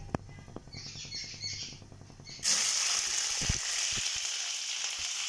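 Broccoli florets dropped into hot cooking oil: the oil starts sizzling loudly about halfway in and keeps up a steady frying hiss. Before that there is only a low hum and a few small clicks.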